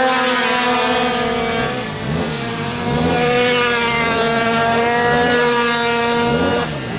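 Small two-stroke minimoto engines racing at high revs: one holds a steady high-pitched note, easing off briefly about two seconds in and again near the end, while other bikes pass with rising and falling pitch.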